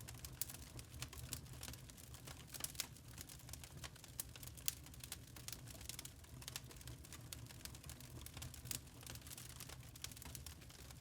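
Wood fire crackling in a fireplace: many small irregular snaps and pops over a low steady rumble, with one sharper pop a little before halfway.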